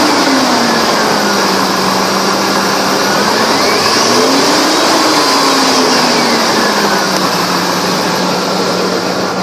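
1999 Ford Expedition's V8 engine idling, settling from a rev at the start, then revved up once about three seconds in and falling back to a steady idle by about seven seconds.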